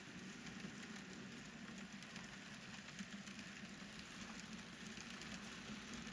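Faint steady hum with light crackling ticks: an N-scale model train running on the layout's track.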